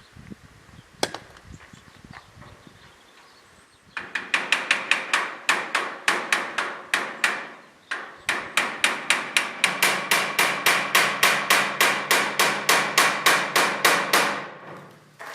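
Rapid hammer blows, about four a second, each with a metallic ring, breaking out the cement that holds an old door frame in the wall. They start about four seconds in, pause briefly, then run on steadily before stopping near the end.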